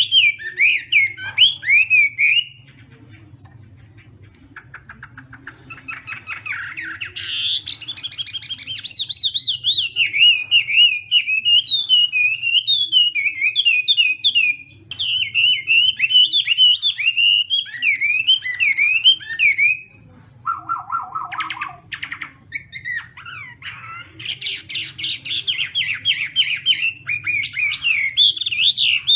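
Chinese hwamei (hoạ mi) singing a loud, varied song of rapid whistled phrases and trills, pausing about two seconds in and then building back through a fast run of repeated notes. Near the twenty-second mark it drops briefly to a lower, steadier note before resuming fast repeated phrases.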